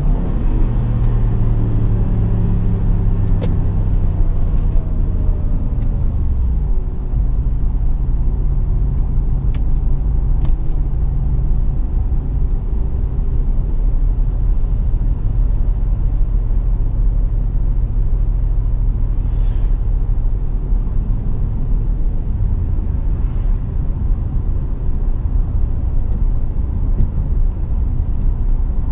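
BMW 650i driving: the engine note falls over the first few seconds as the car slows, then settles into a steady low engine drone with road rumble.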